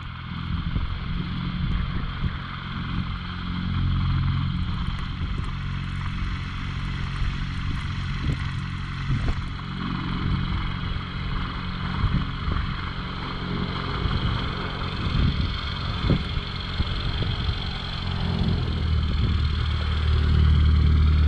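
Small propeller airplane's engine running steadily, growing louder near the end as the plane comes closer.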